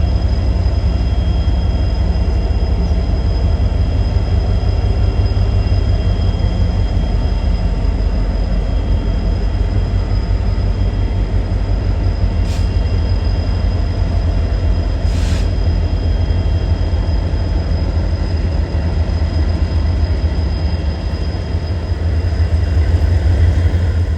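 Freight train passing close by, a loud, steady deep rumble of diesel locomotives and rolling cars. Two brief hissing bursts come about halfway through, and the sound swells slightly near the end.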